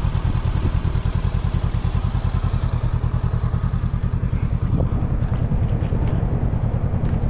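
Honda CB500X's parallel-twin engine idling steadily with an even, unchanging beat. There are a few light knocks and clatter about five seconds in.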